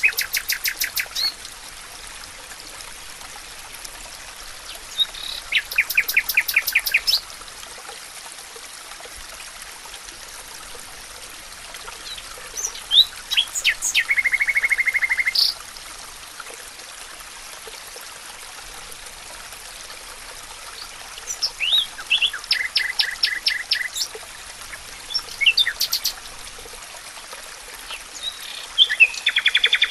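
A songbird singing short, fast trilled phrases of repeated notes every several seconds, over a steady hiss of flowing water.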